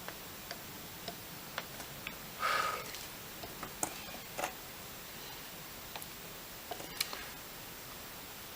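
Light scattered clicks and taps of soldering work at a bench, as solder and tools touch a connector, with one brief hiss about two and a half seconds in.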